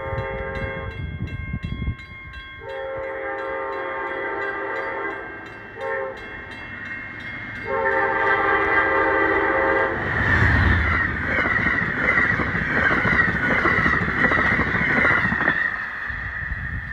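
Amtrak Vermonter's locomotive air horn sounding the grade-crossing pattern: a long blast ending about a second in, then a long blast, a short blast and a long blast. About ten seconds in, the train passes at speed with a loud rush of wheels on rail that fades after about five seconds.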